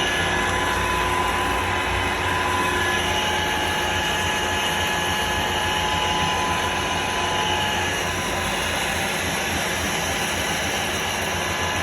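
Metal-turning lathe running steadily while machining a steel shaft: an even mechanical hum with a few faint steady whistling tones.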